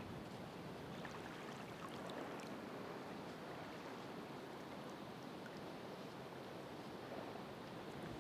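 Ocean surf: a steady rushing wash of waves, with a few faint high ticks scattered through it.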